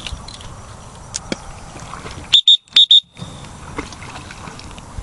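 Four short, loud, high-pitched beeps at one steady pitch, bunched together about two and a half seconds in: a signal tone used to call a retrieving dog in.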